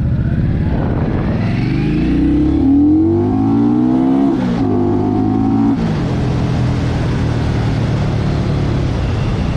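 Motorcycle engine accelerating: its pitch climbs, drops sharply about four and a half seconds in and again about a second later as it shifts up through the gears, then runs steadily.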